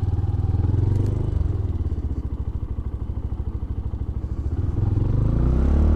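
Benelli BN125's 125cc single-cylinder four-stroke engine running at low revs as the bike rolls slowly, picking up revs near the end.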